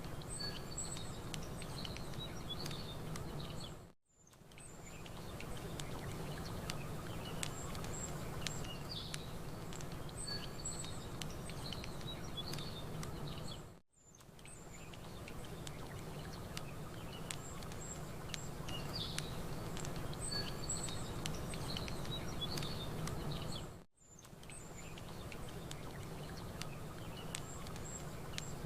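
Campfire crackling with lapping water waves and birds chirping, one steady bed of nature ambience. The whole mix fades out to silence and straight back in three times, about every ten seconds, as the short recording loops.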